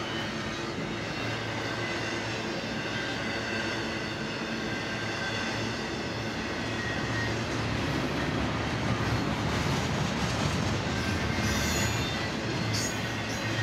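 Double-stack intermodal freight train's well cars rolling past: a steady rumble and rattle of steel wheels on rail, with faint thin wheel squeals over it. It grows a little louder about two-thirds of the way through.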